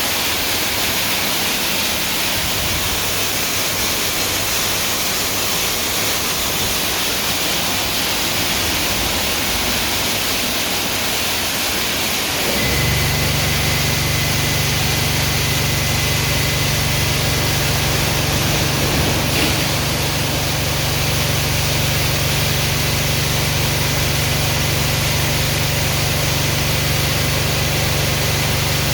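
Car Beautician BMC Royal Waxer car wash spraying water, a steady hiss. About twelve seconds in, a low steady machine hum joins it and keeps going.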